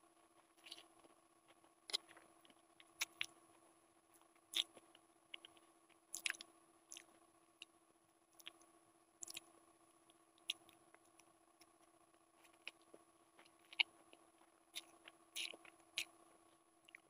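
Close-miked chewing of Maggi instant noodles, with irregular wet smacks and sharp clicks from mouth and fork. A steady faint hum runs underneath.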